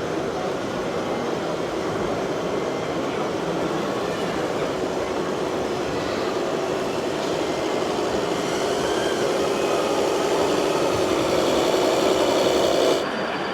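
Radio-controlled model trucks running, a steady mechanical rumble that grows louder towards the end and then drops off sharply near the end.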